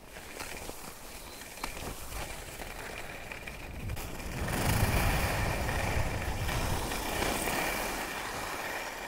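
Rushing wind on the microphone and the hiss of skis on snow while skiing downhill, building to its loudest about halfway through and then easing slightly.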